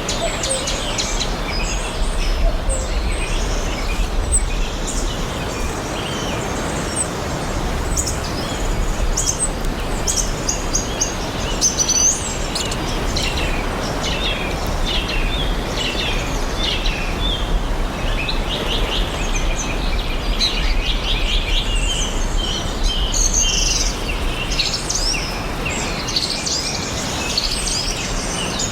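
Several songbirds chirping and singing together, in many short, quickly repeated notes and trills, over a steady background hiss and low rumble.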